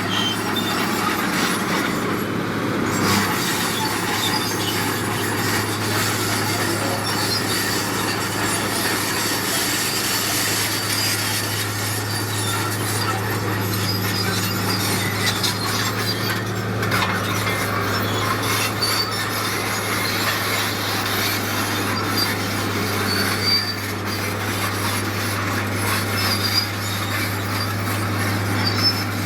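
Heavy diesel earthmoving machinery running steadily: a constant low engine drone under continuous grinding and scraping noise.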